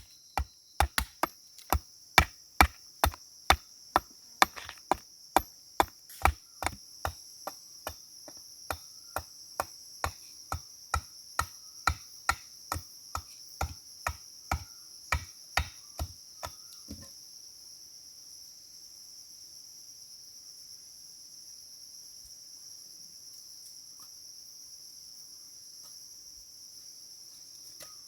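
Steady rhythmic chopping, a little over two sharp strikes a second, stopping about 17 seconds in. Insects chirr in a constant high-pitched drone throughout.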